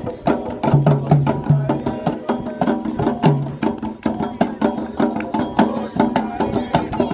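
Candomblé ritual drumming: atabaque hand drums struck in a fast, dense, steady rhythm, with sharp clicking strokes over repeated low drum tones.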